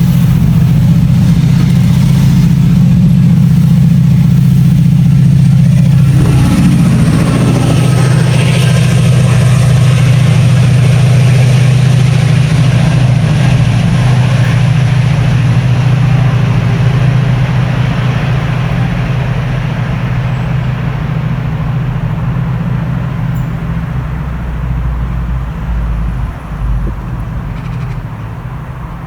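Diesel train engine running loud and steady, with a brief shift in pitch about six seconds in, then fading gradually over the last ten seconds.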